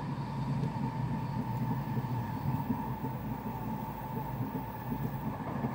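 N700S Shinkansen running at speed, heard inside the passenger cabin: a steady low rumble with a faint constant whine on top.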